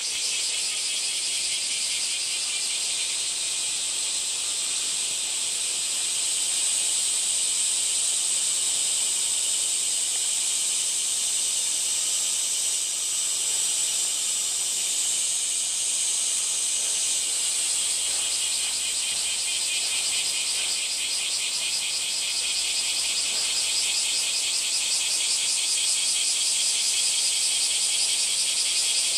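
Cicadas singing in a dense, continuous high-pitched chorus, a rapid pulsing buzz that grows a little louder and more distinctly pulsed about halfway through.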